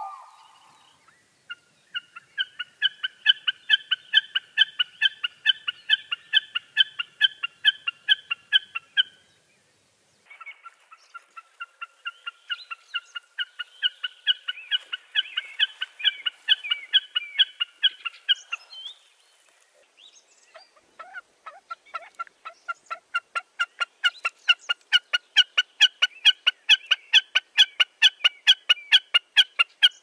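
A bird calling in three long bouts of rapid, evenly repeated notes, about four a second, with short pauses between the bouts.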